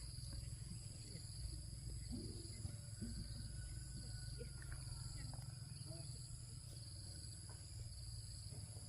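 Steady chorus of insects in several high, unbroken buzzing bands over a low rumble, with a few faint short sounds about two seconds in.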